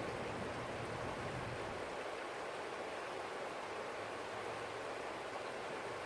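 Stream flowing steadily: an even, unbroken rush of water.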